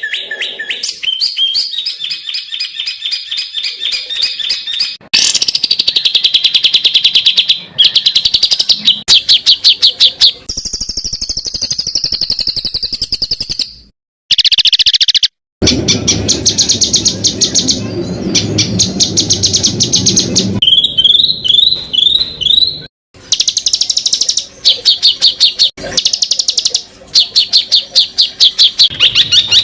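Songbird tutor recording of rapid, harsh 'tembakan' song: fast, evenly repeated high notes and chattering trills of many notes a second. It is spliced from several recordings, with abrupt cuts and brief drop-outs.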